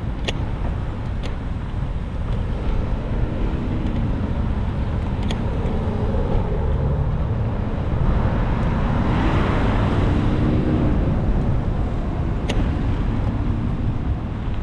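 Road traffic heard from a moving bicycle under a steady low wind rumble on the microphone. A motor vehicle's engine rises and falls in pitch as it passes, loudest about nine to ten seconds in.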